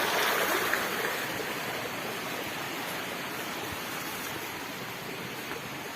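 Steady rush of running water, gradually getting quieter.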